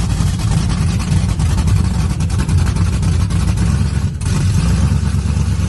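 Cadillac V's engine running through its freshly worked exhaust, a loud, deep, steady rumble, with a brief dip about four seconds in.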